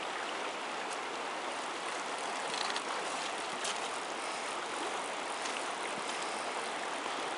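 Steady rush of river water, with a few faint clicks scattered through it.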